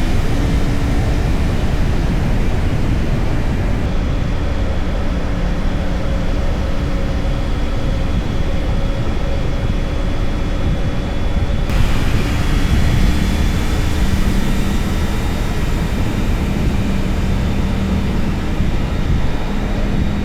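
Motorcycle engine running at a steady road speed, with wind rushing over the microphone; the engine note shifts a little partway through.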